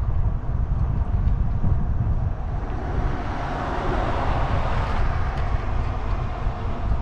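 Wind buffeting the microphone with a steady low rumble while riding an e-bike, with a passing vehicle's noise swelling up and fading away in the middle.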